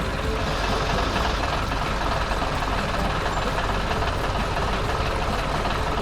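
Steady engine running sound of a cartoon farm vehicle, a dense rapid pulsing chug with a deep low rumble under it.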